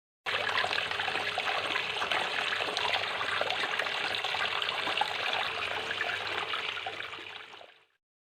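Water trickling and splashing steadily from a small tabletop fountain, over a faint low hum. It starts suddenly and fades out near the end.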